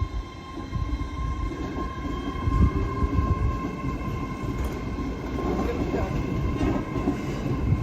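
A train moving at a station: a low, uneven rumble of wheels on the track with a steady high whine.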